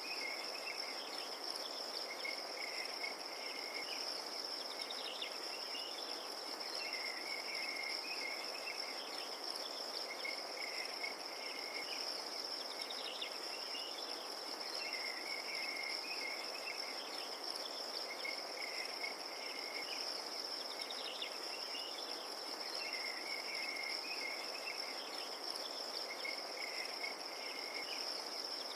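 Crickets trilling in a steady, unbroken high chorus, with a lower chirping call repeating every few seconds over a soft, even background hiss of night ambience.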